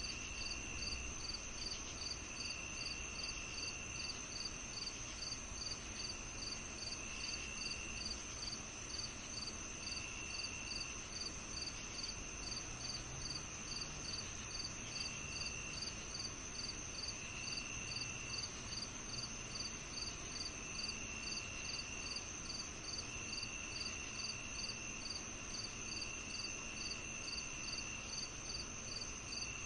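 A chorus of crickets on a summer evening. One keeps a steady high trill, another chirps regularly about three times a second, and a lower trill starts and stops every few seconds.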